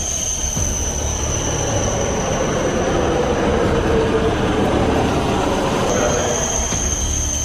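High-speed train running on rails: a steady rushing rumble with a thin, high whine that fades out about a second in and returns sharply near the end.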